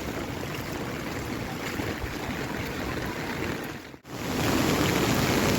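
Steady rushing of flowing water, typical of a flood-swollen stream. About four seconds in it cuts out for an instant and returns louder.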